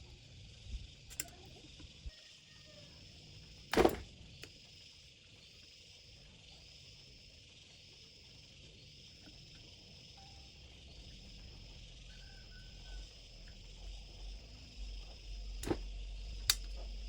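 Insects chirping steadily in a high, pulsing drone, with a few sharp clicks or knocks, the loudest about four seconds in and two more near the end.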